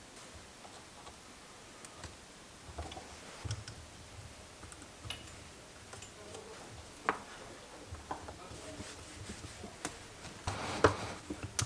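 Sparse light clicks and knocks, with a louder cluster of clatter about ten and a half seconds in.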